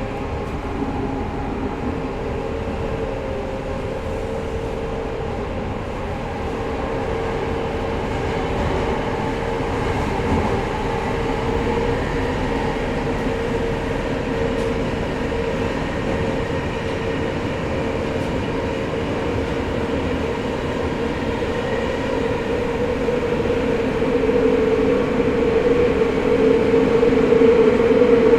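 Tokyo Metro 05 series subway train with Mitsubishi IGBT-VVVF traction, heard from inside the car while running through the tunnel: a steady rumble of wheels on rail under a level traction-motor hum, which grows louder near the end.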